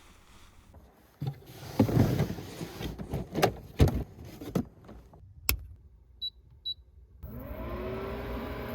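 Knocks and rustling from things being handled, a sharp click, two short high beeps, then a steady whirring starts, with a tone that glides up and levels off, like a small electric motor spinning up.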